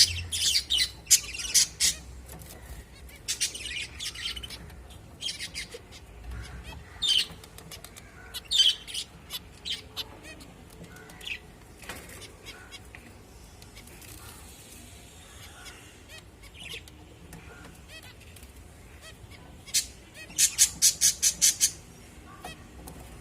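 Small cage finches calling: short, high, nasal calls in quick runs, several clusters in the first half and another fast run of about ten calls near the end.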